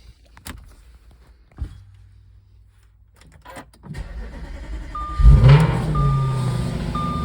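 2014 Audi RS5's 4.2-litre V8 on a cold start: after a few clicks, the starter cranks about four seconds in and the engine catches with a loud flare, then settles into a steady fast idle with the exhaust valve closed. A car warning chime beeps repeatedly once the engine is running.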